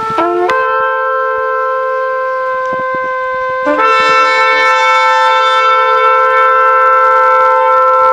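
Shofars (ram's horns) sounding long, held blasts, two horns at slightly different pitches overlapping. One blast breaks off and a new one starts a little over three and a half seconds in, sliding up from a low note into the held tone.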